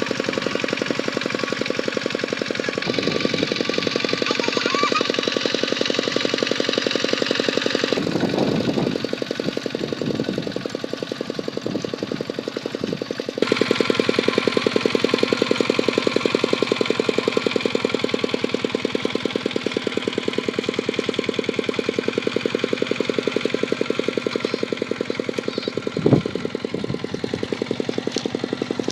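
Kubota tractor's diesel engine running with a steady fast firing pulse, its level shifting suddenly a few times. One short knock comes near the end.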